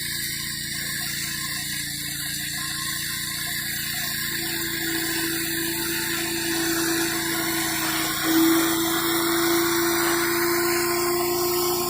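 Gas-engine pressure washer running steadily, with the high-pressure water jet hissing; it swells briefly about eight seconds in.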